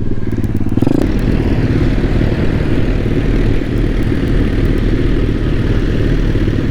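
Pit bike's small engine revving up in the first second, then running steadily under way, with wind noise on the microphone.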